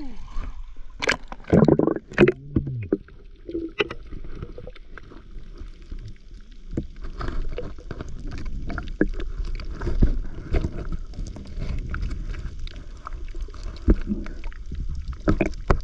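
Irregular splashing and sloshing of water, with many short splashes and knocks.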